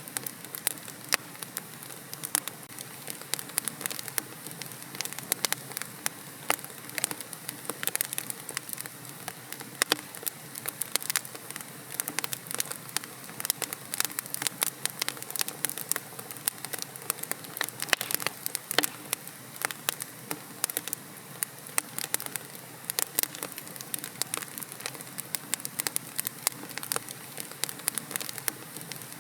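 Wood logs burning in a fireplace, crackling and popping irregularly over a low steady hiss of flame.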